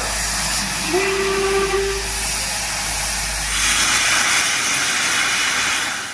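Steam locomotive hissing steadily, with one short whistle note starting about a second in and lasting about a second and a half.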